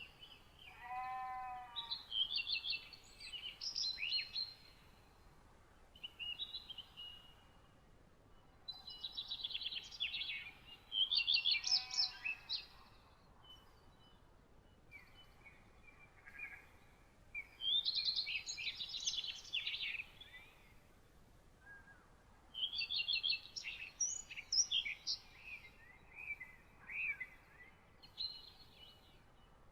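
Songbirds singing in bursts a few seconds long, with short pauses between phrases. Twice a lower, single call cuts in among the songs.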